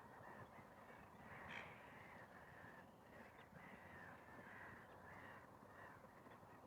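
Faint, distant bird calling: a run of short harsh calls, about two a second, the loudest about a second and a half in, over a quiet outdoor hush.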